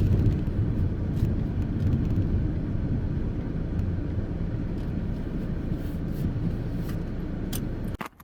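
Steady low rumble of a car's engine and road noise heard from inside the cabin, easing slightly, then cutting off abruptly near the end.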